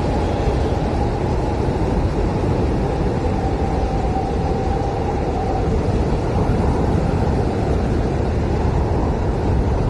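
Blizzard wind howling steadily, a dense low rush of noise with a faint whistling tone that fades out about halfway through.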